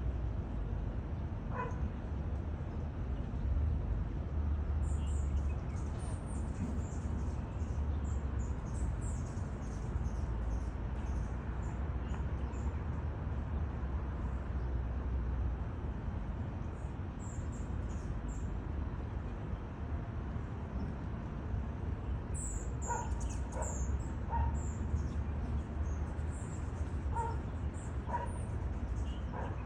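Small birds chirping in quick high-pitched bursts over a steady low rumble, with a few short lower calls near the end.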